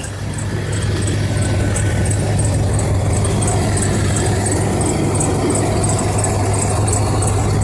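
1999 Dodge Durango's 5.9-litre Magnum V8 idling steadily while warming up after a cold start in 30-degree weather. It gets louder about a second in, and a light, fast high ticking, about three a second, runs over the idle.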